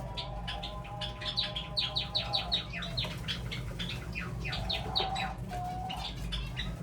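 Java sparrows chirping in a colony: a rapid run of short, high, downward-slurred chirps, several a second, thickest in the middle, over a steady low hum.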